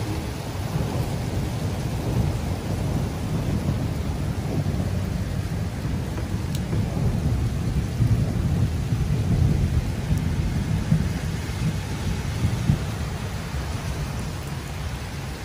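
Heavy rain falling under a low, continuous rumble that swells and fades and is strongest in the second half.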